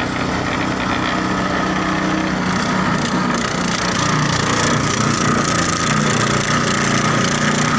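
A small engine running steadily under load, with some wood noise mixed in.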